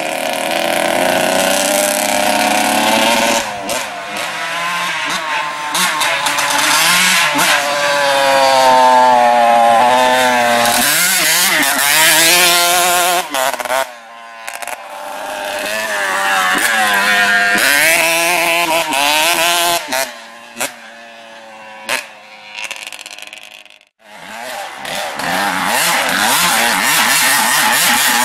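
Honda CR 125's single-cylinder two-stroke engine revved over and over with the exhaust silencer end removed, loud and raspy, climbing to high revs and falling back to idle. Quick throttle blips come about three-quarters through, and just before the end the engine nearly dies, then revs up again.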